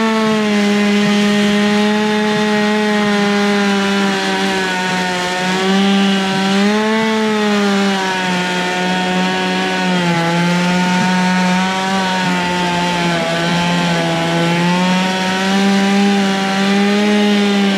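Gas chainsaw running at high speed under load, cutting through ash wood without a break. The engine pitch sags and recovers several times as the chain bites deeper and eases off.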